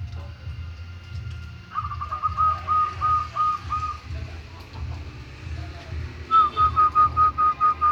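A bird calling in two bouts of clear, evenly repeated whistled notes, about four a second, with a pause of about two seconds between the bouts.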